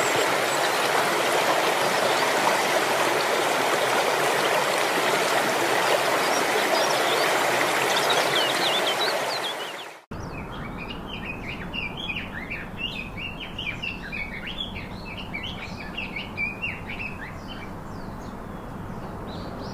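Rushing water, a steady hiss that fades out about halfway through. Then a flock of small birds chirping busily and quickly over a low background rumble.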